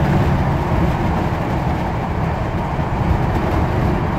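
Running noise heard inside the saloon of a moving Class 156 diesel multiple unit: a steady rumble of the train on the track. A low steady hum, likely the underfloor engine, drops away about half a second in.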